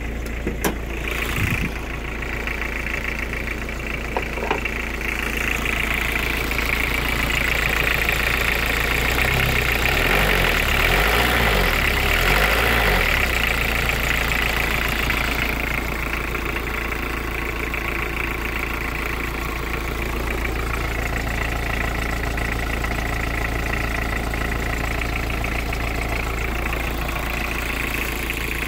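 Toyota Camry 2.0 turbo diesel four-cylinder engine idling steadily, growing louder for several seconds in the middle before settling back. A few sharp clicks near the start.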